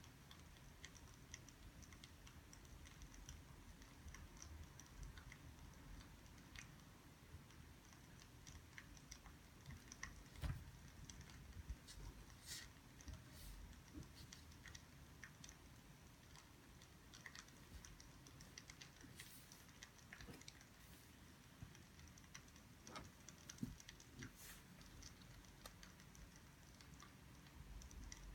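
Faint, irregular small clicks and ticks over a low steady hum, a few a little louder than the rest.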